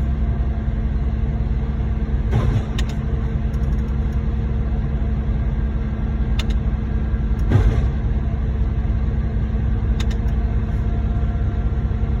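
Heavy diesel truck engine running steadily at a raised idle, a continuous low rumble with a steady hum, broken by a few short, sharp knocks at irregular intervals.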